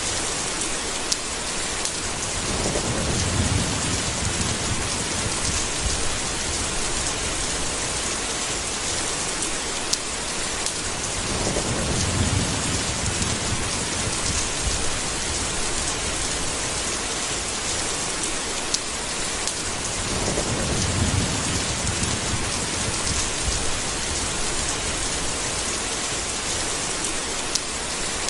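Rainstorm: steady heavy rain with a low roll of thunder three times, about nine seconds apart, and a few sharp ticks in between.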